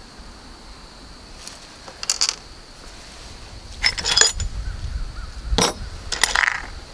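Small steel hardware, bolts and lock washers, clinking and rattling against each other as it is handled, in about five separate short bursts of clinks.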